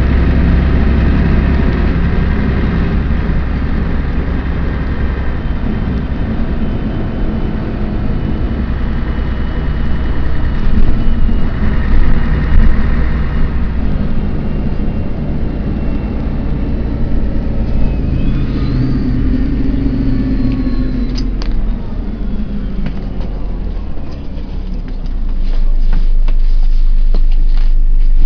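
Scania CN113ALB city bus engine running as the bus drives off, its note rising and falling as it accelerates and eases off. It grows louder around the middle, dips a little past two-thirds of the way through, then picks up again near the end.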